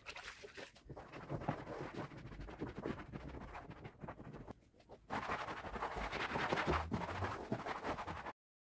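Household cleaning sounds: rapid scrubbing and rubbing with many small knocks and clatters, in two stretches with a brief lull about four and a half seconds in.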